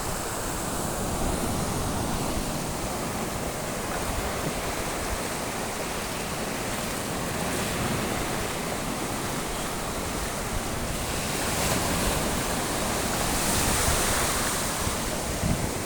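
Sea waves washing on the shore: a steady surf wash, with one wave swelling louder for a few seconds near the end.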